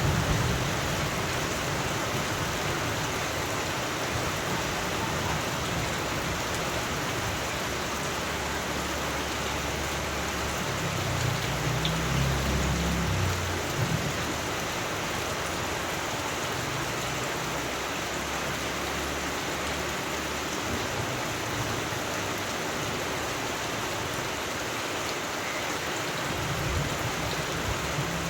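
Steady rain falling, with a low rumble of thunder around the middle.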